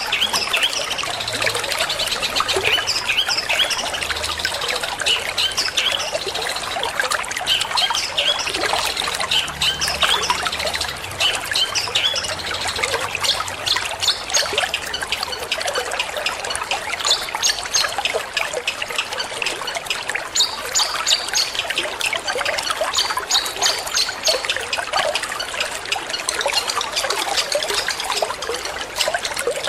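Water trickling steadily, overlaid with a long-tailed shrike's song of rapid, short chattering notes.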